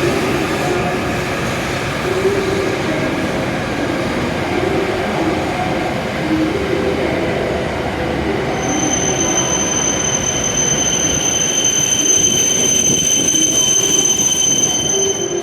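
Hokuriku Shinkansen W7 series train running in and slowing to a stop. It rumbles steadily, and from about halfway a high, steady squeal joins in and cuts off abruptly at the end as the train comes to rest.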